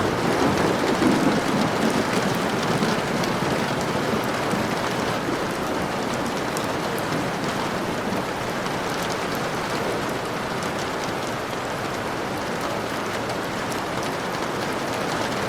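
Steady rain falling, an even hiss, with a low rumble swelling and fading in the first few seconds.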